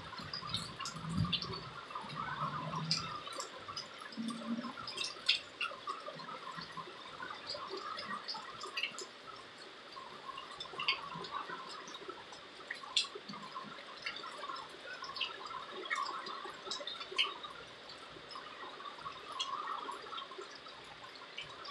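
Light rain falling: a soft steady rush with scattered sharp taps of raindrops and drips throughout, and a few low gusts of wind in the first few seconds.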